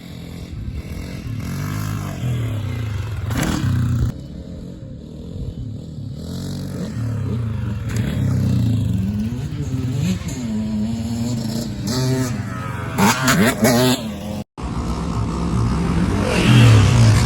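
A vehicle engine revving up and down repeatedly, its pitch rising and falling, with a short break about 14 seconds in.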